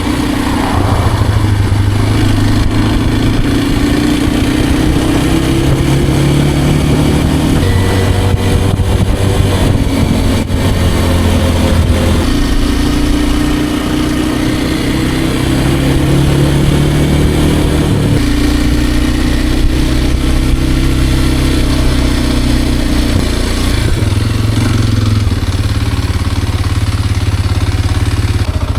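Kawasaki KLX230R's single-cylinder four-stroke engine running hard under load at road speed, around 47 mph. Its pitch creeps and then changes step by step several times as the throttle and gears change, over a steady rush of wind on the microphone.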